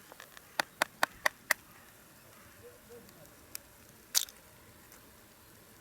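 A quick run of five sharp clicks, then two more single clicks a little later, the last the loudest.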